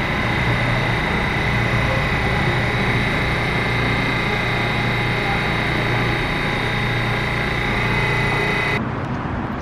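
A steady mechanical running noise: a low hum with a constant high whine over a rushing hiss, which changes abruptly near the end.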